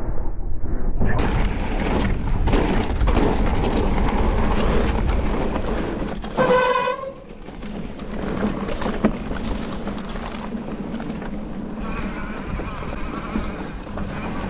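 Riding noise of an electric mountain bike on a trail: wind on the microphone with rattles and knocks over bumps. A brief high squeal comes about six and a half seconds in.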